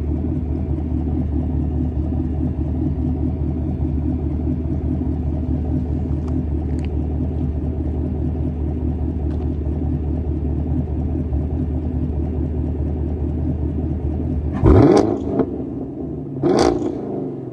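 6.2-litre V8 of a 2021 Chevrolet Camaro SS through an AWE Track Edition axle-back exhaust, idling steadily, then revved sharply twice near the end, each rev falling back towards idle.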